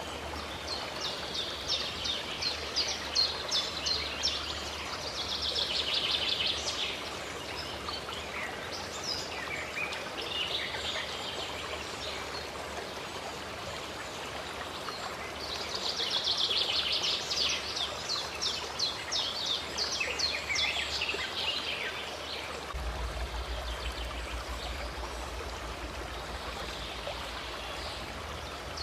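Running stream water flowing steadily, with birds singing over it in two spells of rapid, repeated high notes, one near the start and one in the middle.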